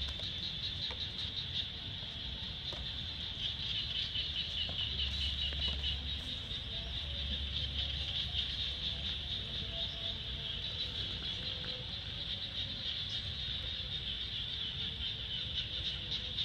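Steady high-pitched insect chorus with a fast pulsing shimmer, over a low rumble that comes and goes.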